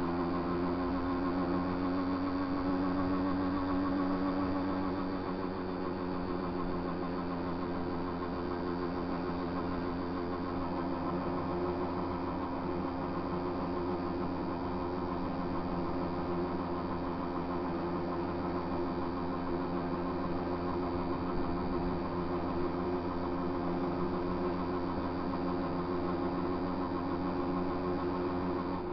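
Small motorcycle engine running steadily under way as the bike is ridden along a road, slightly louder for the first five seconds and then easing a little.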